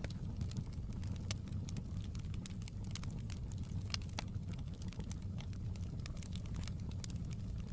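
Wood fire in a fireplace crackling: irregular sharp pops and snaps, several a second, over a steady low rumble of the burning.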